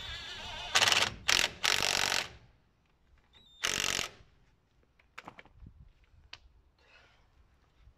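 Workshop tools at work on a car's front wheel hub: a few short, loud bursts of a tool running, then light metallic clicks and taps.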